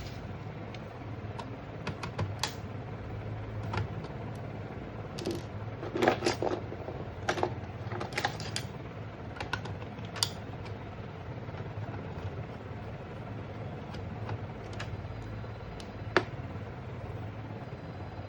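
Scattered, irregular clicks and taps over a steady low hum, loudest in a quick cluster about six seconds in.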